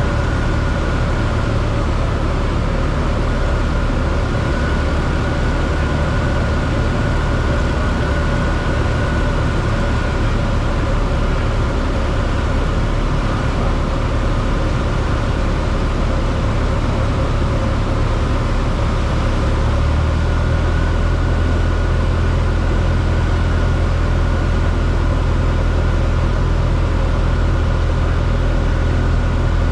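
Cessna 172 cockpit noise: the piston engine and rushing air make a steady low drone with a thin, steady whine above it. About twenty seconds in, the low drone grows louder.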